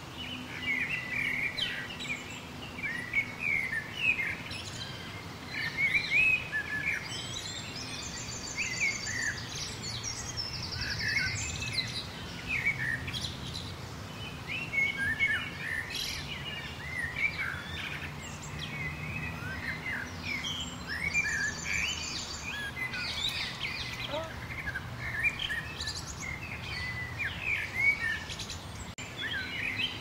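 Several songbirds chirping and singing without pause, a busy overlap of short chirps and whistles. Twice, about eight seconds in and again about twenty-one seconds in, a high, rapid buzzy trill stands out, with a faint low steady hum underneath throughout.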